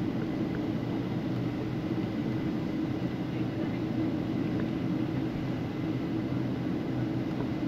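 Steady low rumble of a vehicle interior while moving, with a faint thin tone above it.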